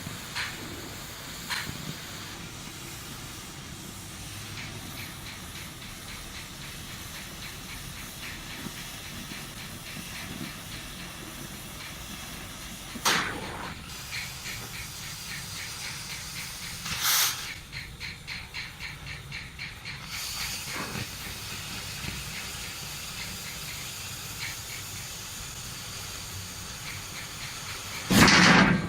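A steady hiss with three short, loud hissing blasts: one about halfway through, another a few seconds later, and the loudest near the end.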